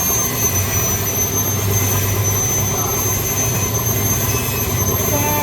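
A machine running steadily: a constant low hum with a thin high whine over it and no change in level.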